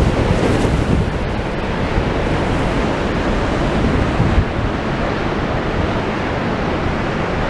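Rough sea with the tide coming in, waves breaking and surging in a steady rush, mixed with wind rumbling on the microphone.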